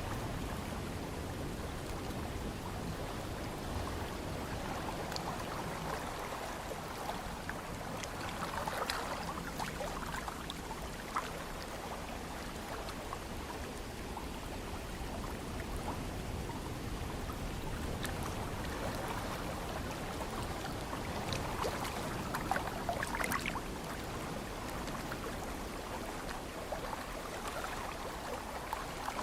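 Ocean waves washing in as a steady rush of water, swelling louder every several seconds, with a low rumble of breeze underneath.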